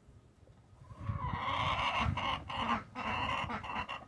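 Hens calling loudly, starting about a second in, in a few long noisy calls with short breaks between them.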